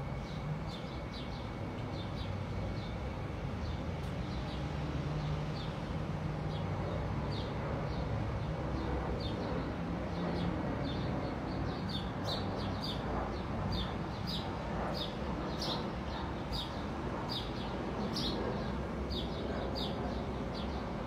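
A bird chirping: short high chirps repeated over and over, coming faster in the second half, over a steady low background rumble.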